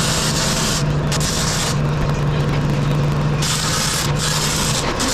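Metal fabrication shop noise: a steady low hum with stretches of hiss that start and stop abruptly, about every second or two.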